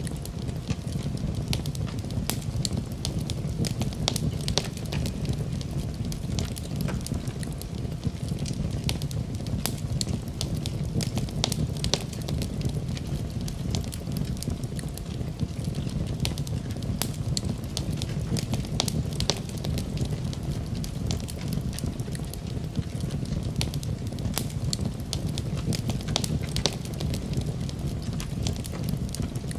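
Wood fire burning in a fireplace: a steady low rumble of flame with many sharp, irregular crackles and pops from the burning wood.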